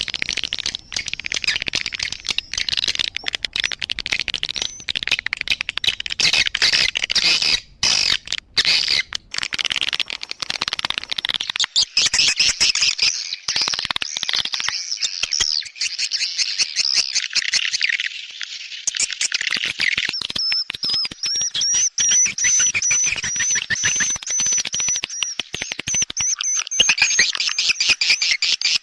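Swiftlet lure call recording: dense, rapid chirping and clicking twitter, with a thin high trill running through the second half. It is the kind of call played to draw swiftlets into a nesting house.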